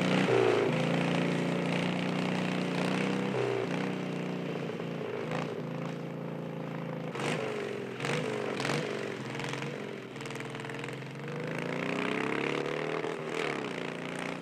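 Chopper motorcycle engine running under way, its pitch rising and falling as it revs up and eases off. A few short sharp clicks come partway through.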